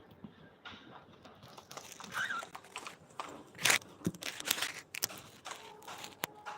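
Irregular rustling and crinkling, broken by several sharp clicks, the loudest a little past halfway.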